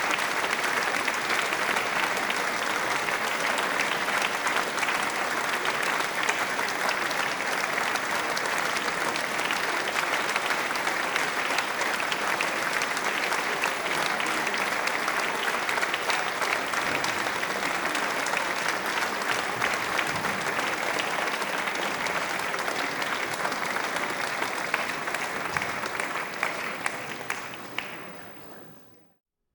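Audience applauding: dense, steady clapping from many hands that fades out over the last couple of seconds.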